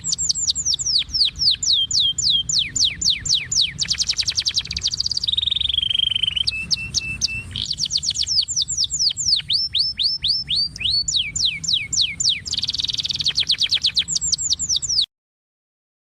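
Songbird singing: fast series of high, downward-sliding chirps, several a second, broken by dense buzzy trills, over a faint low rumble. It cuts off suddenly about a second before the end.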